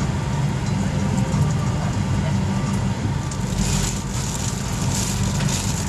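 Steady low hum and air hiss inside a parked Boeing 737-800 cabin during boarding, with faint passenger chatter and scattered light clicks and rustles, busier in the second half.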